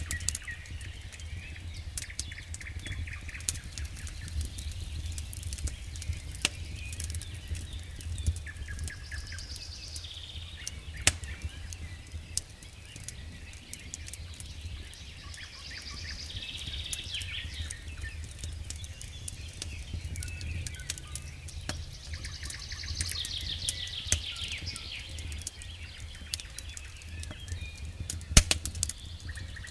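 Wood campfire crackling with irregular sharp pops, a few louder ones near the start, in the middle and near the end, while songbirds sing trilling phrases every few seconds.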